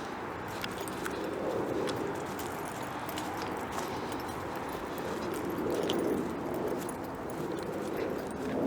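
Footsteps of a hiker walking a woodland trail, with small scattered crackles and clicks from the ground underfoot.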